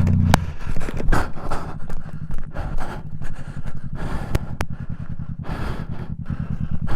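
Motorcycle engine: a steady engine note drops away at a sharp click just after the start. The engine then runs on at low revs with an even pulsing beat, with a few scattered clicks.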